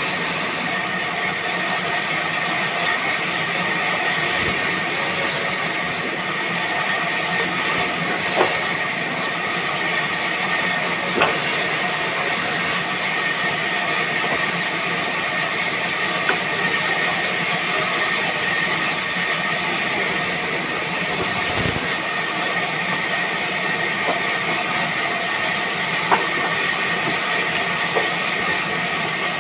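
Band saw mill running steadily: an even, loud high hiss with a thin steady tone and a few faint ticks, typical of a saw blade running through wood.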